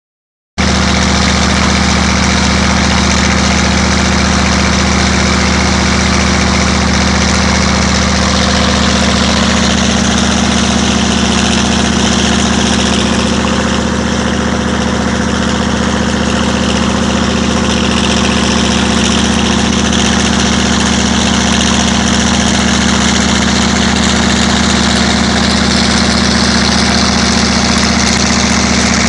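Case V8 engine running steadily. Its sound begins abruptly about half a second in and then holds an even, unchanging note.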